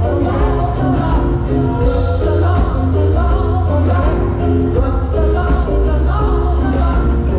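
A gospel-style choir singing with an amplified live band, over a heavy bass line.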